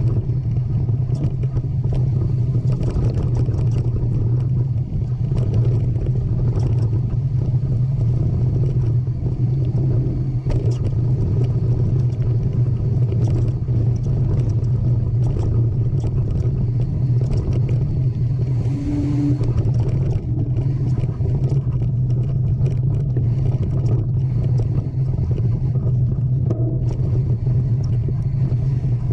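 Mountain bike riding over rough trail: a steady low rumble of wind and riding noise on the microphone, with frequent short rattles and knocks from the bike.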